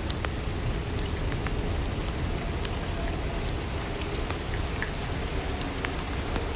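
Steady rainfall with occasional sharp drip-like ticks scattered through it.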